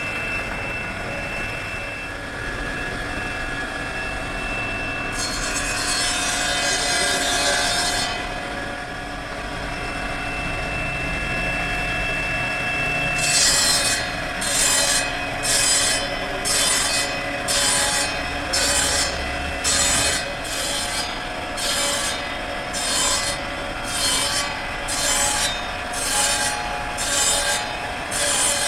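Wood being cut by a woodworking tool: steady scraping over a constant hum at first, then from about halfway regular sawing strokes, a little more than one a second.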